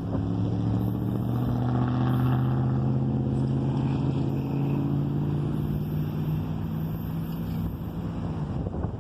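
Freight train passing, with a diesel engine's drone slowly falling in pitch over a steady rumble, fading near the end.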